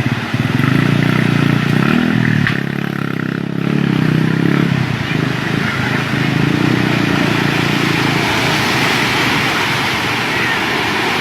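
An engine running, its low drone wavering in pitch, with a rushing noise that grows louder near the end.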